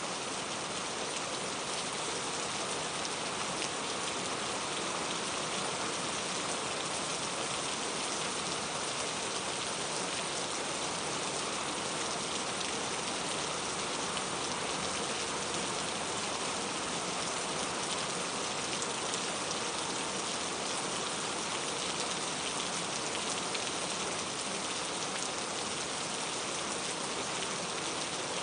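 Steady, even rain falling, a dense patter of drops with no pauses or changes.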